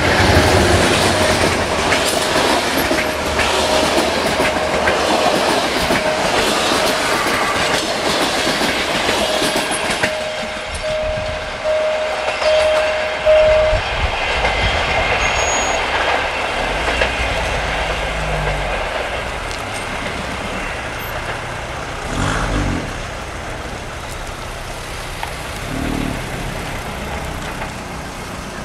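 A train passing close by, its wheels clattering over the rail joints, with a thin steady squeal that stops about halfway. The sound then fades gradually as the train moves away.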